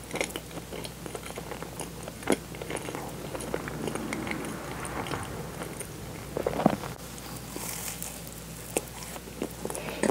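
Person chewing a strawberry cream-and-bean-paste doughnut close to a clip-on microphone: a run of small, irregular mouth clicks and smacks, with one louder click about six and a half seconds in.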